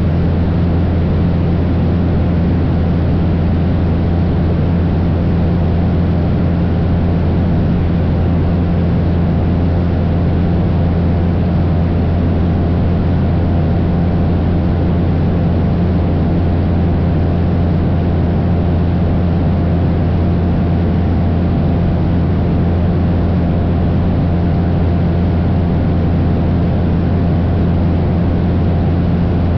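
Cessna 172's piston engine and propeller droning steadily in cruise flight, a deep hum with a constant tone above it and an even rush of air, unchanging throughout.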